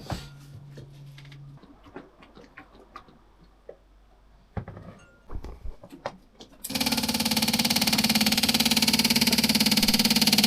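A few light clicks and knocks, then, about two-thirds of the way in, the boat's 6 kVA generator is started: a sudden loud, steady mechanical drone with a fast even beat. It is being tried after a filter and oil service meant to fix its month-long failure.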